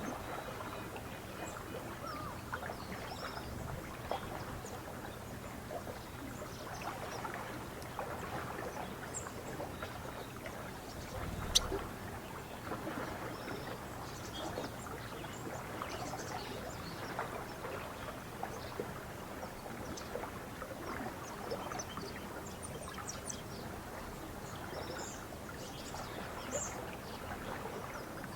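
Lake water lapping and splashing against the shore in a steady, irregular patter, with faint bird chirps scattered throughout. A single sharp click stands out a little before halfway.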